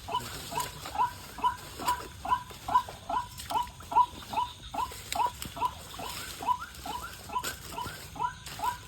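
White-breasted waterhen's "wak-wak" call: short, hooked notes repeated steadily about two and a half times a second.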